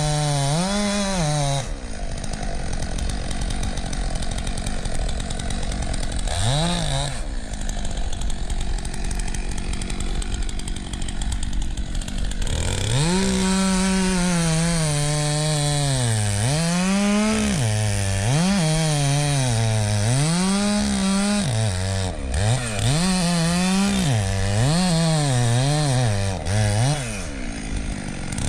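Two-stroke chainsaw running, first steadily under a wash of noise for about ten seconds, then revved up and down over and over, about once a second.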